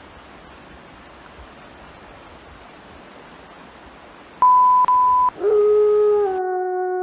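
A steady hiss, then an electronic beep at one steady pitch lasting about a second. It is followed by a sustained tone with overtones that slowly falls in pitch like a siren winding down, as the hiss cuts out abruptly.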